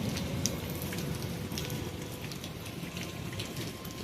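Heavy rain falling steadily, with scattered drops striking close by.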